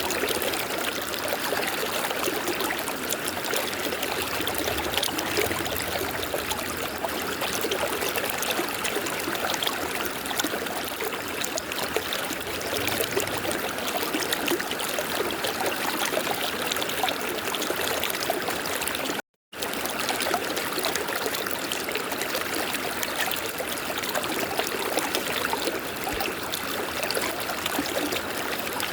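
A river flowing: a steady rush of running water with a light trickle. The sound cuts out to silence for a moment about two-thirds of the way through, then resumes.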